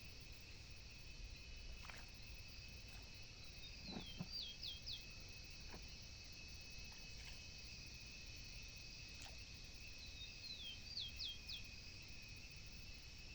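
A bird calling twice, each call a short high phrase of a slurred note followed by three or four quick downward notes, about four seconds in and again about ten seconds in. A steady high thin tone and faint outdoor noise run underneath.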